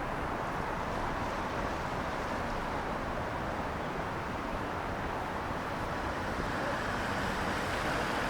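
Steady city traffic noise: cars passing on wet roads, with a continuous hiss of tyres.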